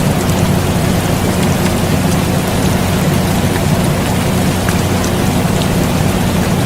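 Steady rain with a few scattered drop ticks, over the constant low hum of an air conditioner.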